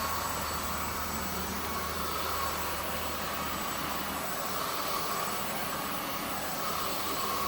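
Zoker A10 Pro cordless stick vacuum running steadily on its highest power setting: a constant whine over the rush of air, as it is pushed across carpet.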